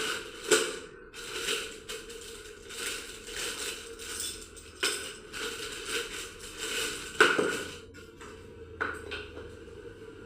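Metal tools and engine parts clattering and scraping in irregular bursts, the loudest about seven seconds in, over a faint steady hum.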